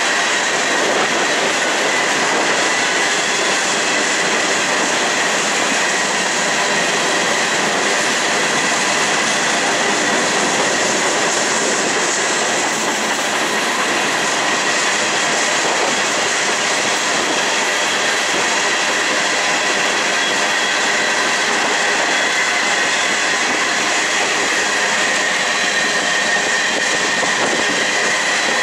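Loaded covered hopper cars of a long freight train rolling past on a curve: steady rumble and clatter of wheels on rail, with a thin steady high squeal from the wheels in the curve.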